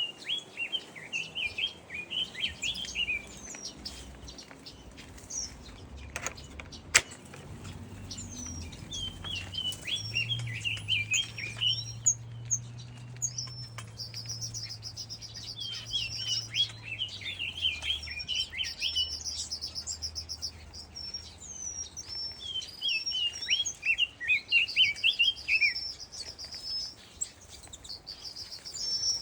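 Many small aviary birds chirping and twittering in repeated quick flurries. From about halfway through, a higher buzzy trilling song joins in several long stretches.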